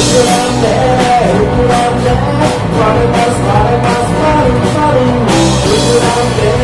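Rock band playing live, full and loud, with a lead melody line rising and falling over the band.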